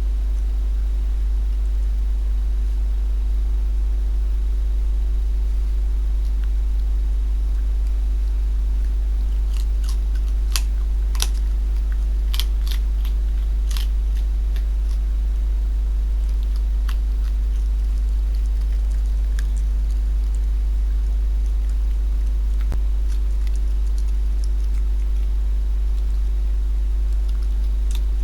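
A fox chewing and crunching food, with a cluster of sharp crunches partway through and a few scattered ones later, over a loud, steady low electrical hum.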